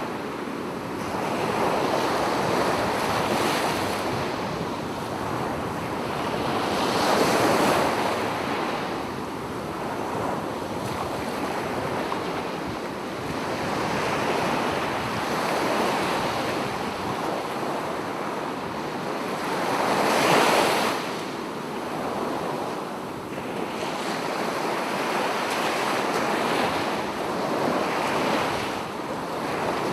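Sea waves breaking and washing up on a beach, a steady surf that swells louder every few seconds, most strongly about seven and twenty seconds in.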